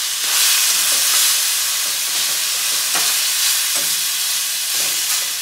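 Grape tomatoes sizzling in a hot wok while a metal potato masher crushes them, with a few soft knocks of the masher against the pan.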